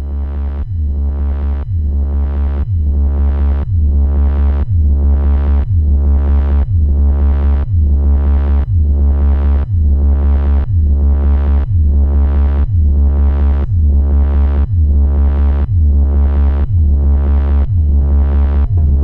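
Electronic music played on a modular synthesizer: a deep, steady bass with a kick-like pulse that repeats about twice a second, each pulse falling in pitch. It grows louder over the first few seconds.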